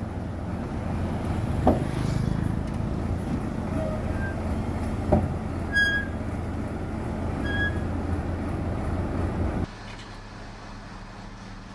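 Diesel engine of heavy earthmoving machinery running steadily, with two sharp metallic knocks and a few short high-pitched chirps. About ten seconds in the level drops suddenly to a quieter, steady engine hum.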